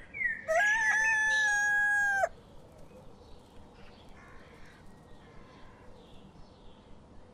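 A rooster crowing once: a long, held call of about two seconds that cuts off sharply. Faint bird chirps follow in the background.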